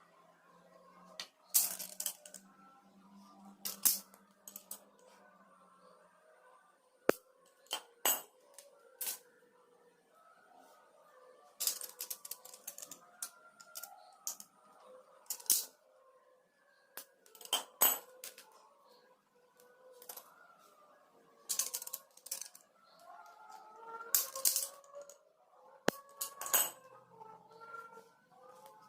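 Irregular clicks and clatter of small hard plastic pieces and tools being handled and set down on a work surface, while PVC parts are cut and fitted for a miniature truck chassis.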